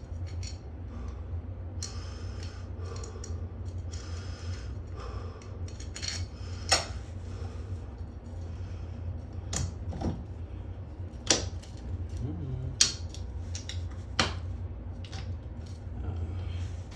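Small metal bolts and nuts clinking and rattling as they are handled and tried for fit, with a few sharper clicks, over a steady low hum.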